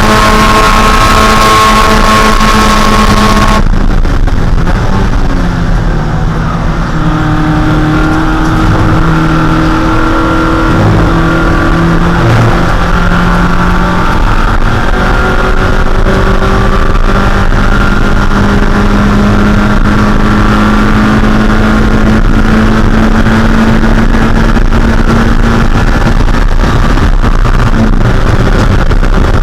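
Onboard sound of a Mazda Miata's 1.6-litre four-cylinder race engine running hard at a steady high pitch, loud and close. About three and a half seconds in, the hiss above the engine drops away suddenly and the engine note shifts lower, then holds steady with brief changes in pitch.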